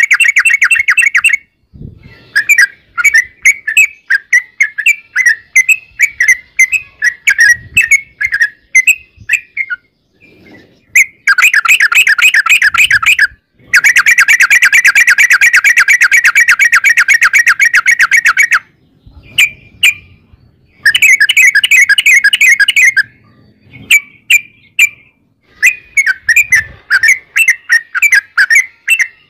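Yellow-vented bulbul (trucukan) singing loudly: quick chattering phrases broken by long, very fast trills of many repeated notes, the longest lasting about five seconds in the middle.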